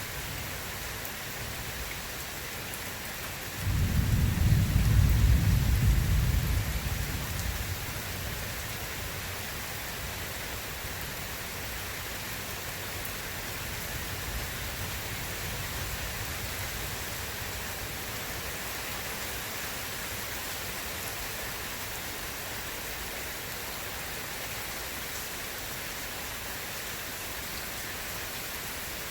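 Steady heavy rain with a single deep rumble of thunder that breaks in suddenly about three and a half seconds in and dies away over the next few seconds.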